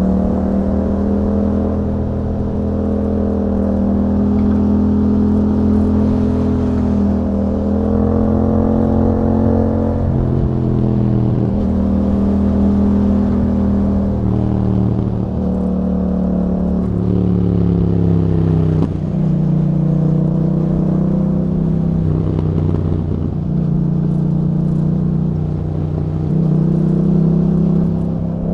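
2021 Yamaha MT-07's parallel-twin engine through an Akrapovic exhaust with a dB killer, running on the move. Its note climbs with the revs and drops sharply at several gear changes.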